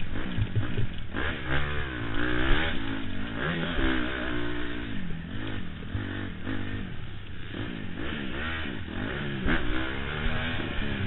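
Honda CRF motocross bike's four-stroke single-cylinder engine, heard from the rider's helmet, revving up and dropping back over and over as the throttle is worked through corners and jumps.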